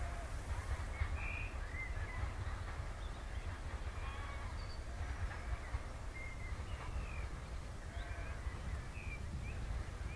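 Birds chirping and singing in short scattered calls over a steady low rumble.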